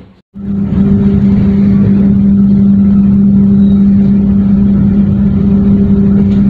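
Steady, loud hum of a passenger train heard from inside the coach as it pulls slowly out of the station, a low droning tone over a rumble. It starts after a moment of silence.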